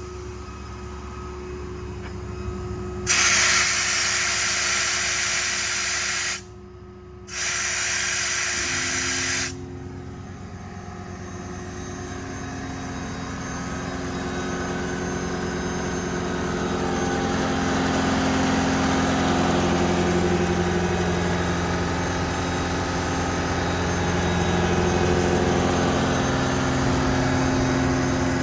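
PTO-driven hydraulic air compressor running on the service truck with its 6.7 Power Stroke diesel, a steady drone with held tones. About three seconds in, compressed air hisses out loudly in two blasts with a short break between them, then the engine and compressor drone carries on, slowly getting louder.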